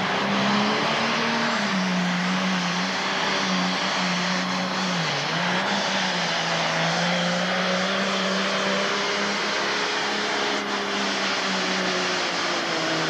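Pro stock pulling tractor's engine running hard at full power under load as it pulls the sled down the track, a steady loud drone. Its pitch sags briefly partway through and drops near the end as the run winds down.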